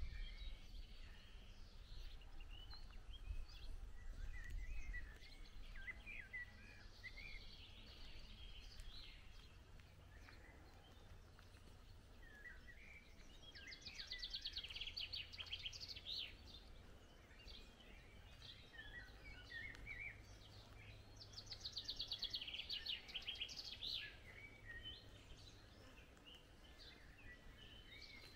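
Songbirds singing and chirping, faint, with two fast trills, one about halfway through and another near the end; a low rumble in the first few seconds.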